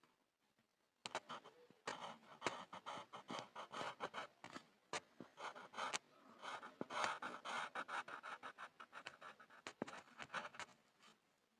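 Pencil scribbling on a board: quick scratching strokes mixed with small sharp taps, starting about a second in and stopping near the end.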